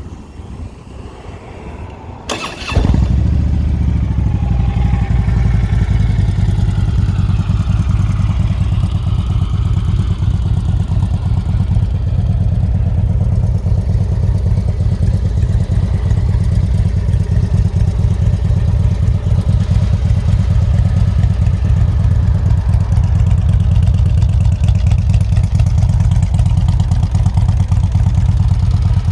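2012 Harley-Davidson Street Glide's V-twin engine starting about two seconds in, then idling loud and steady through aftermarket exhaust pipes.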